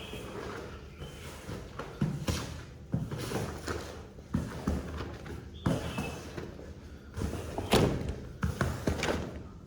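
Irregular thumps and scraping strokes from cleaning work on a mud-soaked shaggy rug, about a dozen knocks spread unevenly, with the loudest near the end.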